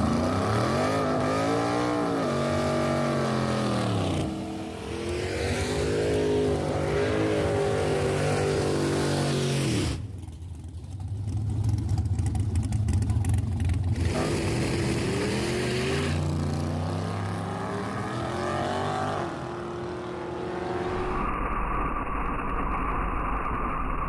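Fox-body Mustang drag car's engine revving and accelerating hard on a motor pass without nitrous, its pitch sweeping up and dropping back several times. The sound breaks off abruptly about ten seconds in and settles to a steadier run near the end.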